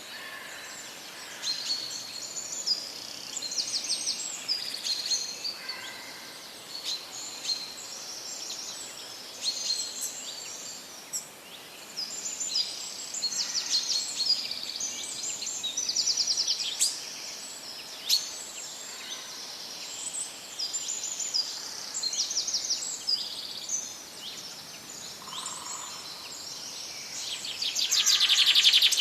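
Several songbirds chirping and trilling over a faint steady background hiss, with a louder, faster trill near the end.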